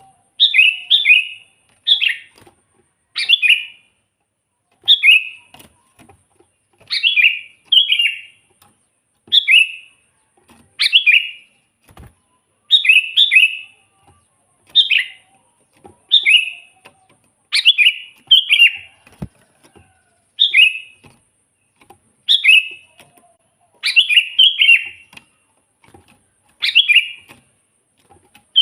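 Sooty-headed bulbul (kutilang) singing persistently. It gives short phrases of a few quick, falling notes, one phrase every second and a half to two seconds.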